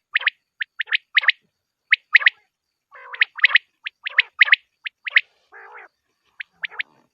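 Quail calling: quick phrases of two or three short, sharp whistled notes, repeated over and over, with a lower rasping note about three seconds in and another near the end.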